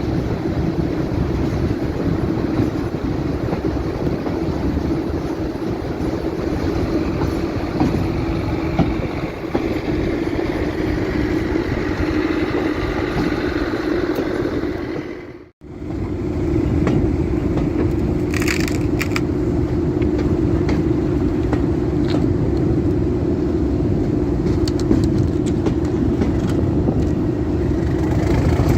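Diesel train engine running steadily with a heavy low drone. The sound drops out briefly just past halfway, then the same engine carries on with a few short squeaks or clicks.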